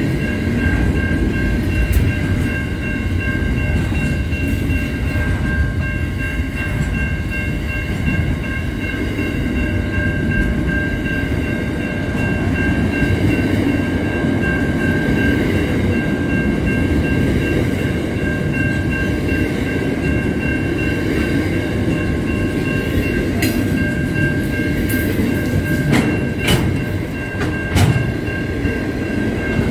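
Container freight train wagons rolling past close by: a continuous rumble of wheels on rail, with a steady high-pitched whine held over it and a few sharp clanks near the end.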